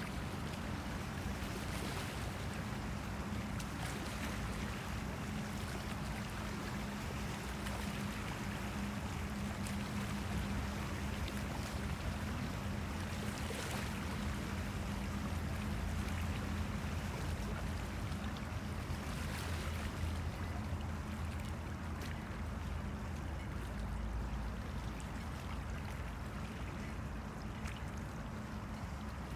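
Small river waves lapping and splashing against the Han River bank, with soft splashes every few seconds. A steady low hum runs underneath.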